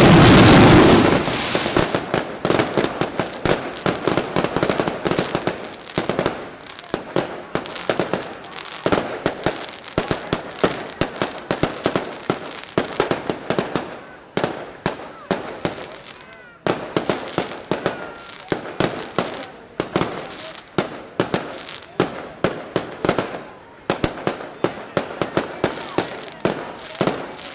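Daylight fireworks: a long, rapid string of sharp firecracker bangs, several a second, loudest in the first second and thinning out briefly a couple of times midway.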